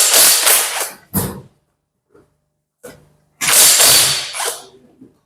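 A power tool run in short bursts: one lasting about a second at the start, a brief one right after, and another about a second long from about three and a half seconds in, as bolts are undone on a Ford Sierra 1.8 engine being stripped.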